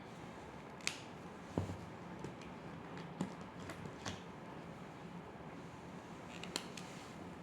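A handful of short, sharp clicks and one duller knock, scattered and irregular, over a faint steady background hiss.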